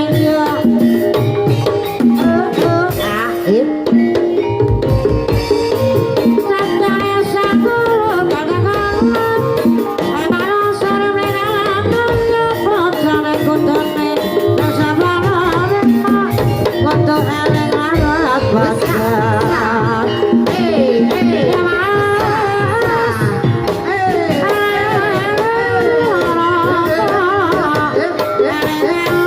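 Javanese gamelan music in Banyumasan style accompanying a kuda kepang (ebeg) horse-trance dance. Hand-played kendang drum patterns run over steady bronze metallophone and gong tones, with a singing voice gliding above.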